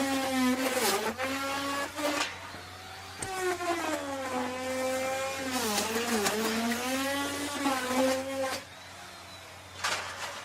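Electric wood router running and cutting into wood: its high motor whine sags in pitch each time the bit bites under load, then recovers. The motor stops about eight and a half seconds in, and a few short knocks follow near the end.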